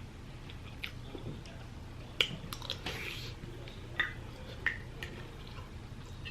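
A person chewing food, with about half a dozen scattered sharp clicks and ticks, over a steady low hum.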